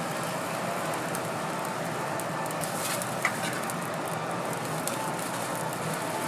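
Hotteok frying in oil on a flat griddle: a steady sizzle, with one sharp tap about three seconds in.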